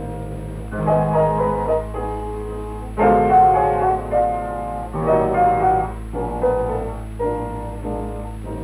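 Film soundtrack music: piano playing a melody over chords, with a faint steady low hum from the old recording.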